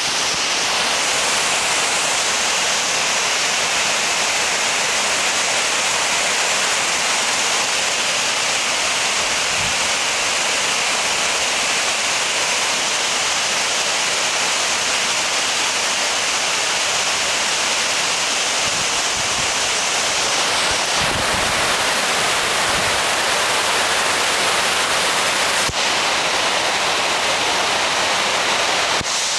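Fan-type cooling tower running: a steady rushing noise of water falling and splashing through the tower.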